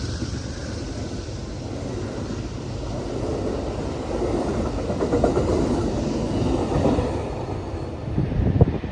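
Train rolling past on the track: steady wheel-on-rail noise that swells in the middle, with a sharp knock near the end.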